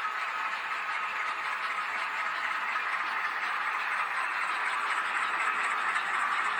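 H0-scale model Renfe Alco 313 locomotive running: a steady whir of its small electric motor and gearing with the wheels rolling on the rails, growing slightly louder toward the end.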